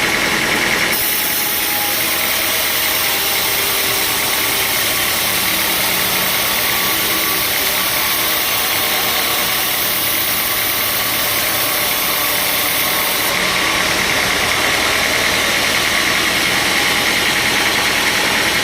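Sawmill machinery running, a loud, steady mechanical noise. A brighter high hiss joins about a second in and drops away about two-thirds of the way through.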